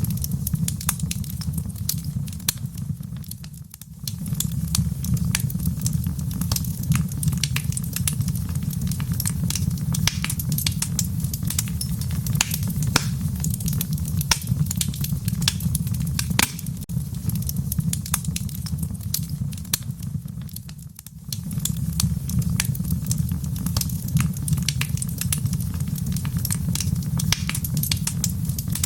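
Wood fire burning in a stone fireplace, with a steady low rumble and many sharp crackles and pops. The sound fades down and comes back abruptly twice, about 17 seconds apart.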